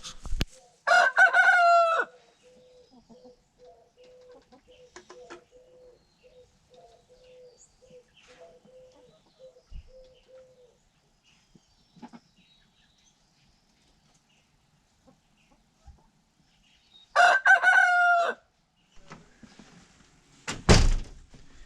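A rooster crowing twice, each crow about a second long and the second one well toward the end. Between the crows a hen makes a faint, steady run of low murmuring clucks. Just before the end there is a loud knock.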